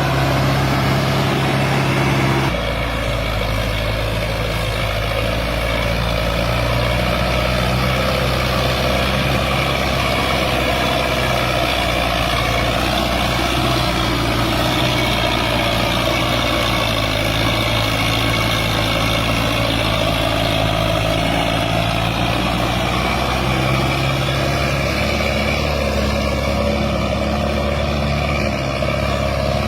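Sonalika DI 750 diesel tractor engine running steadily under load while pulling a fully loaded trolley, its pitch shifting about two and a half seconds in.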